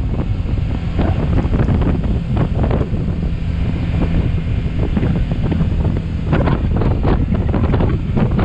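Wind buffeting the microphone in uneven gusts over the steady low drone of a motorcycle engine cruising.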